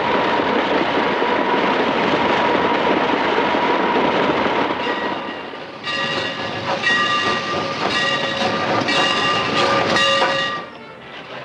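Film-soundtrack train running at speed: a loud, dense rush of rail noise, with a train whistle sounding over it in several blasts from about six seconds until near the end.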